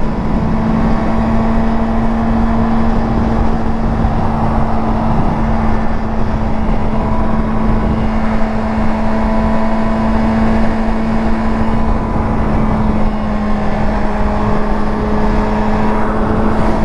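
Yamaha R6 motorcycle's inline-four engine holding a steady, unchanging note while cruising, under a constant rush of wind and road noise.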